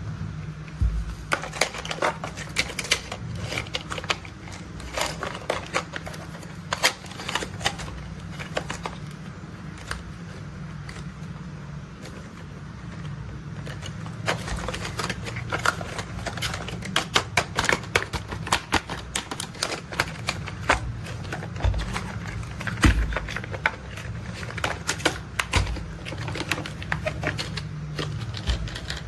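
Plastic toy construction vehicles being handled, giving rapid, irregular clicks and rattles over a steady low hum.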